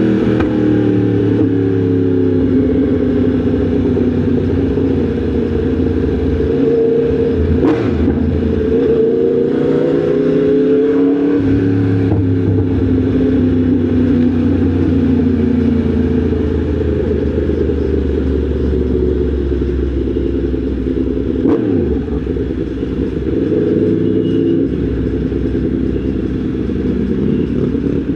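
Yamaha MT-10 SP's crossplane inline-four engine running under way, its pitch falling and rising as the rider rolls the throttle on and off and changes gear, with road and wind noise underneath.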